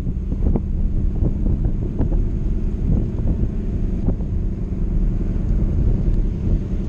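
Ford Mustang convertible's engine running as the open car cruises, a steady low rumble, with wind buffeting the microphone.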